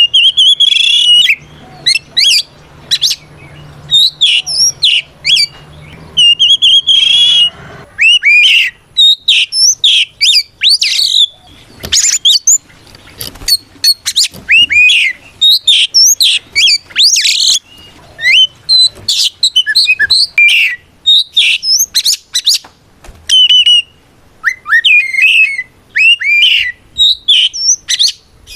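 Oriental magpie-robin singing a loud, full challenge song to call out rivals: rapid runs of clear whistles, quick rising and falling sweeps and chirps, in bursts with short pauses.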